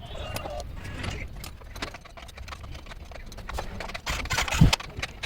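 Irregular clicks and knocks over a low steady hum, with a louder thump about four and a half seconds in.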